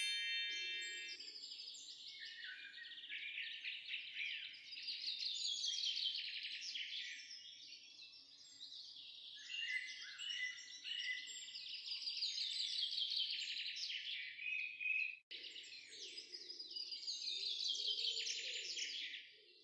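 Songbirds singing: a dense, unbroken stream of quick chirps and falling trills, with a brief gap about fifteen seconds in.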